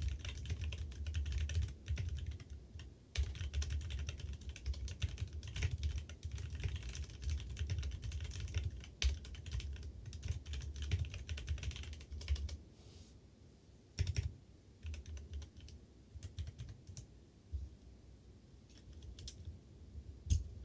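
Fast typing on a Leopold FC660M mechanical keyboard with lubed tactile (non-clicky) Kailh Speed Bronze switches in an aluminium CNC case. Under the keystrokes runs a low drumming of desk resonance. The typing thins out to scattered keypresses a little past halfway.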